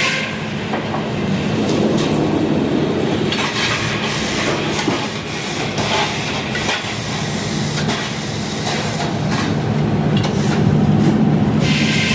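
Sawmill engine running steadily, with scattered knocks and clanks of machinery.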